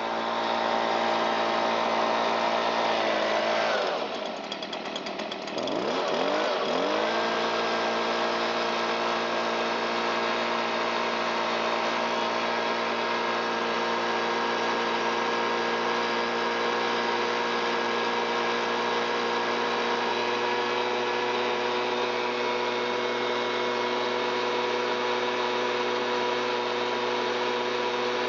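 Stihl BG86 handheld leaf blower's two-stroke engine held at full throttle. About four seconds in, its pitch sags sharply and climbs back over the next couple of seconds, then it runs steady and high. The engine is clearing leftover fuel out of the muffler and crankcase after its fuel-leak repair.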